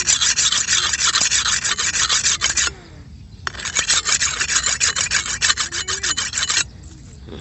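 Sickle cutting through rice stalks in rapid rasping strokes, in two runs of about three seconds each with a short break between them.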